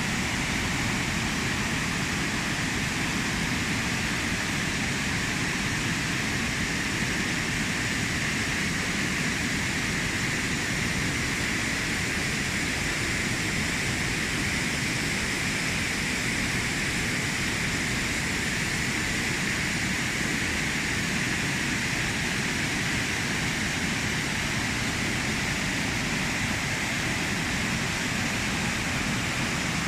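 River water rushing in a steady flow, swollen by monsoon rain in its catchment.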